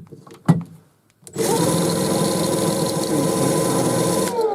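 A sharp knock about half a second in. Then a power drill spins a brushless motor's shaft to drive it as an alternator: a steady whine starts about a second and a half in, runs for about three seconds, and falls in pitch as it slows near the end.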